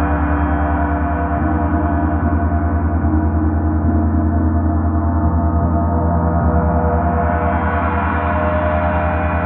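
Gong sounding in a sustained, continuous wash of many overlapping tones, with a slight wavering in loudness.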